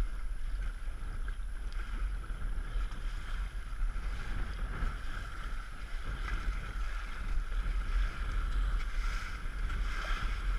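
Wind buffeting the microphone aboard a small sailboat under way, a fluttering low rumble over a steady rush of water.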